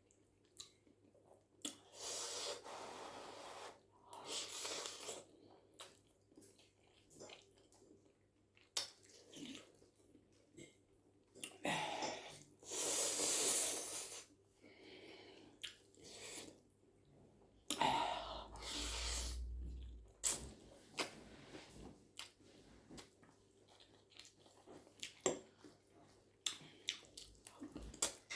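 Close-miked eating of spaghetti with shrimp and vegetables: chewing with many small mouth clicks. Four longer noisy sounds of a second or two each are heard along the way.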